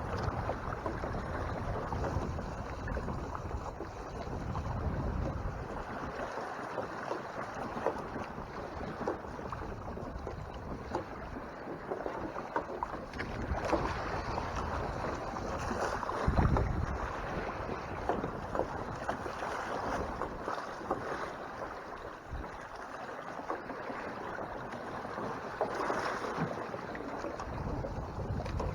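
Water rushing and splashing along the hull of a Hobie Tandem Island sailing kayak under way, with wind buffeting the microphone. A few louder rushes come and go, the loudest about sixteen seconds in.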